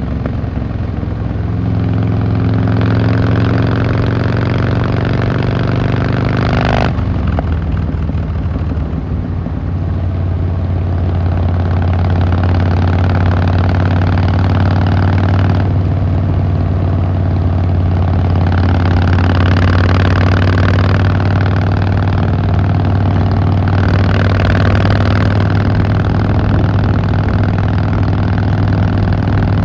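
Harley-Davidson Fat Boy Lo V-twin engine and exhaust under way. The note rises steadily in pitch under acceleration, drops abruptly at a gear change about seven seconds in, then settles into a steady low cruising note with a few gentle swells of throttle.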